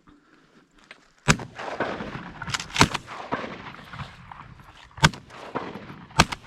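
A volley of shotgun shots from waterfowl hunters, about five shots in all. The first comes about a second in, two follow close together near the three-second mark, and the rest are spread over the following seconds, each with a short echoing tail.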